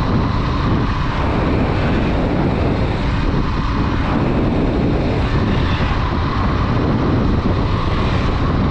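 Steady wind rush on the microphone mixed with the running of a Honda Dream 110's 110cc single-cylinder four-stroke engine, riding along at an even cruising speed.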